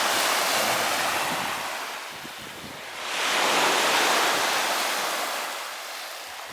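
Surf washing onto the shore in two swells: one rising and falling in the first two seconds, a second rising about three seconds in and slowly fading.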